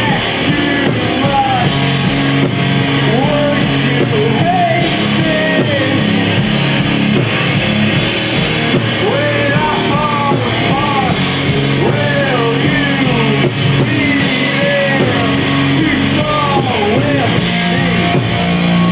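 Live rock band playing loudly: guitars and drum kit with a singing voice sliding between notes over them.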